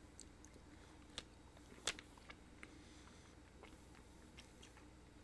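Faint mouth sounds of small hard candies being bitten and chewed: a scatter of short sharp crunching clicks, the loudest a little under two seconds in, over a near-silent room.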